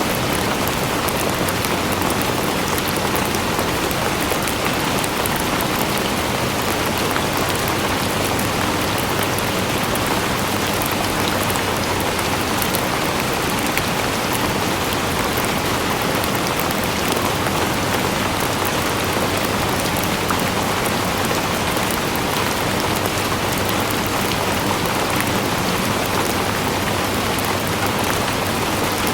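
Steady rain falling on a surface, an even hiss with many small drop patters throughout.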